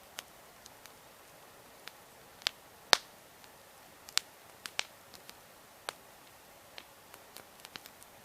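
Wood campfire crackling: irregular sharp pops and snaps of burning wood, a few louder ones among many small ticks, over a faint steady hiss.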